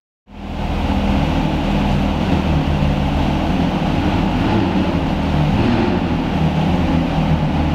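A supercar engine idling steadily, a low hum that wavers slightly in pitch, echoing in an underground parking garage. It cuts in just after a brief gap at the start.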